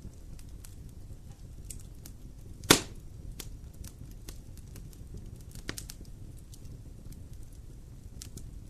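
Campfire burning: scattered crackles over a low steady rumble, with one sharp, loud pop about a third of the way in and a smaller pop about two-thirds in.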